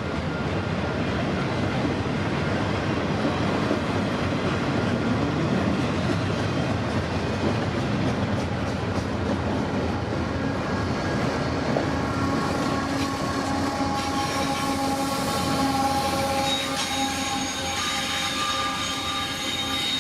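Container freight train rolling past, with continuous wheel-on-rail noise. From about twelve seconds in, several steady high squealing tones from the wheels join it and last to the end.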